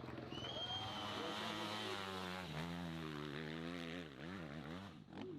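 Hill-climb motorcycle engine running hard, its revs swinging up and down several times in quick succession past the middle, then fading away near the end.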